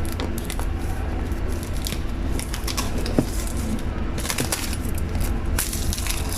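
Crackling, rustling and clicking of things being handled, in several short clusters with one sharp click near the middle, over a steady low rumble.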